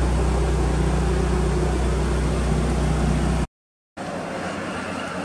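Mitsubishi Lancer Evolution VIII's turbocharged 4G63 inline-four idling steadily beside the car. It cuts off abruptly about three and a half seconds in, and after a short gap a quieter steady hum carries on from inside the cabin.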